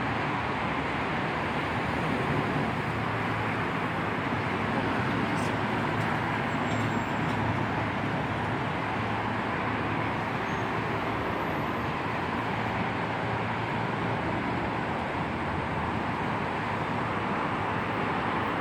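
Steady, even vehicle noise with no pauses or distinct events.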